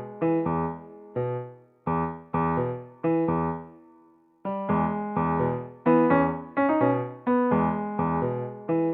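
Background music: a light keyboard tune on a piano-like instrument, chords and notes struck and left to fade, with a short pause about four seconds in.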